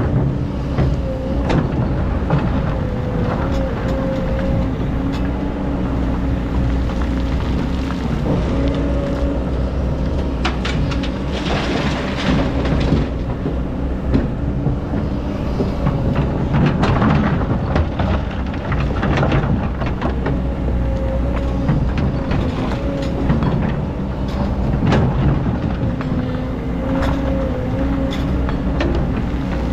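Excavator's diesel engine running steadily under load, its pitch wavering slightly, with several surges of grinding and scraping as the bucket digs into hard, compacted old sand.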